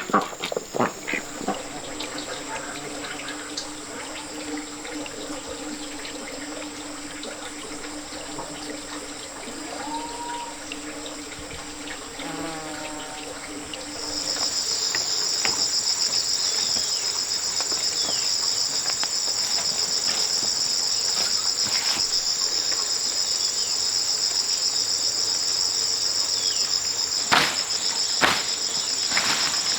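Steady, shrill insect chorus, which gets much louder with a pulsing shimmer about halfway through. A low steady hum sits under it in the first half, and a few sharp knocks come near the end.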